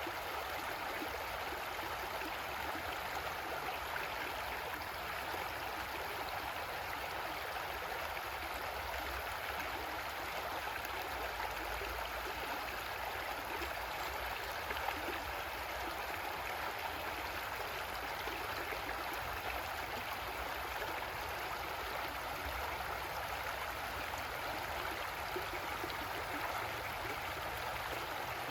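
Creek water flowing over rocks, a steady rushing and gurgling with no breaks.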